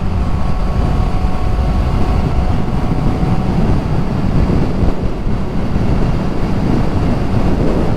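Wind rushing over the microphone of a motorcycle at road speed, over the steady running of a Kawasaki Z1000SX's inline-four engine. A faint steady whine sits on top and fades out about three and a half seconds in.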